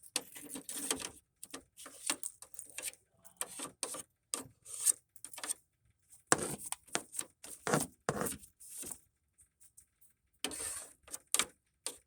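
Scattered short rubbing and light clinking sounds of hands handling things at the work, coming and going with gaps of silence between them, with no steady torch hiss.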